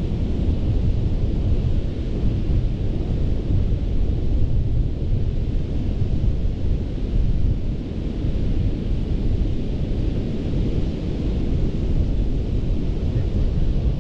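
Gulf of Mexico surf washing steadily onto a sand beach, with wind buffeting the microphone as a deep rumble underneath.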